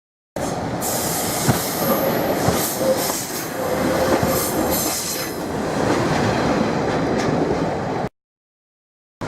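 Train moving through a station, with high-pitched wheel squeal and occasional knocks from the wheels. The sound cuts in about a third of a second in and cuts off suddenly about a second before the end.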